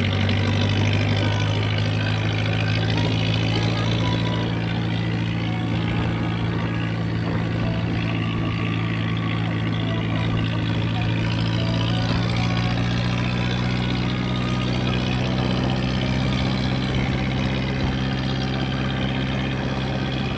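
Tractor diesel engine running at a steady speed through a homemade steel silencer, its exhaust note holding even with a slight easing about four seconds in.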